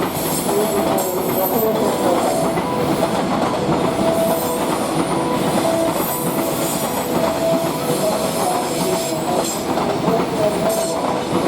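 Freight train running past: a steady rumble of wagons with rail clatter and intermittent squealing tones from the wheels.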